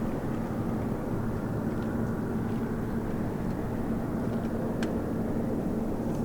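Steady low rumble of jet airliner engines with a constant hum, holding level without rising or fading, with a few faint ticks.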